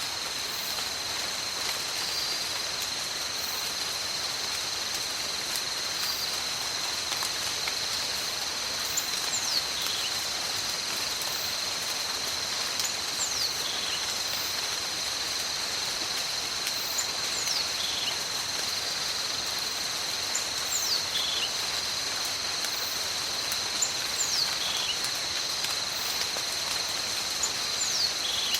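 Steady rain in a tropical forest with a constant high insect drone. From about nine seconds in, a falling whistled call repeats about every four seconds.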